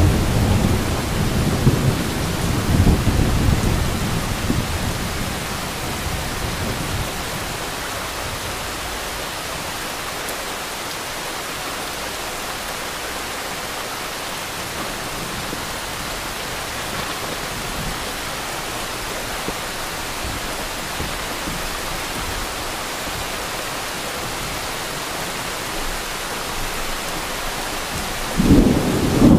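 Heavy rain pouring steadily. A rumble of thunder dies away over the first few seconds, and another thunderclap breaks in near the end.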